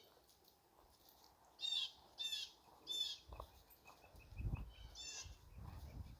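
A bird calling outdoors: four short, harsh calls, three in quick succession about two seconds in and one more near five seconds. Low thumps and rumbles run under the second half.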